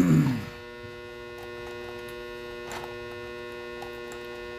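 Steady electrical mains hum with a faint click about three seconds in.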